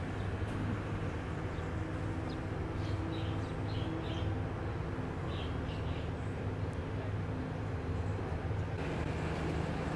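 A State Railway of Thailand passenger train rolling slowly past during yard switching, with a steady low mechanical drone.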